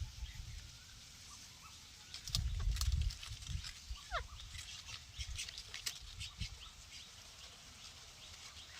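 Ringneck parrot moving about: low thumps about two and a half seconds in, scattered light clicks, and one short falling call about four seconds in.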